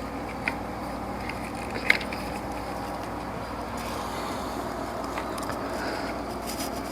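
Light clicks and knocks of tools and parts being handled while an alternator is being fitted, two sharper clicks near the start, over a steady background hum.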